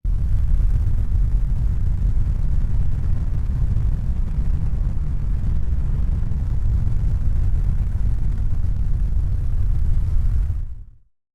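Steady low rumbling noise with no distinct tones, fading out near the end.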